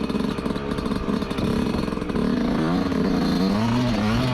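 Yamaha YZ125 single-cylinder two-stroke dirt bike engine being ridden: it chugs at low revs at first, then from about halfway the revs rise and fall repeatedly as the throttle is worked.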